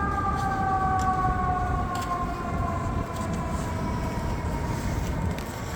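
An emergency vehicle's siren wailing with its pitch slowly falling, over a steady low rumble of city traffic.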